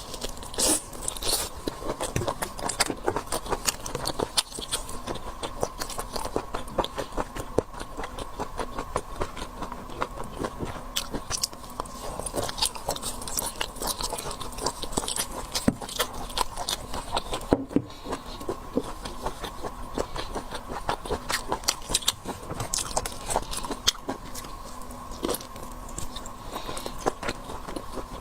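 Close-miked eating: a person biting and chewing seafood, with many small irregular crunches and wet clicks. A faint steady hum runs underneath.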